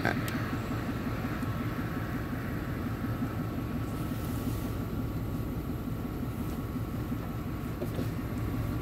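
Steady low rumble of a car driving along a road, heard inside the cabin: engine and tyre noise, with a brief click just after the start.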